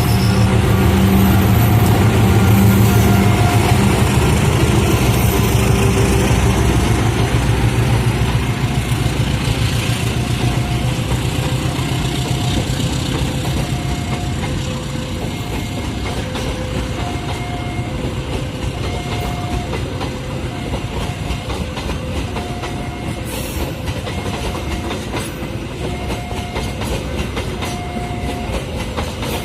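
A train passing close by: a heavy low rumble for the first several seconds, then the rapid clickety-clack of wheels over the rail joints as the carriages roll past, the level easing a little after the first few seconds.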